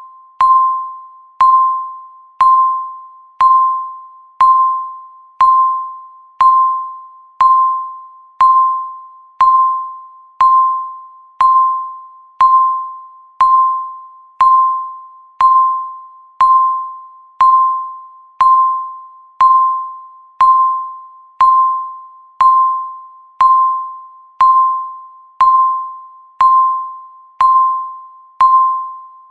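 Countdown timer's electronic beep, one short chime-like tone struck once a second, each fading away quickly before the next.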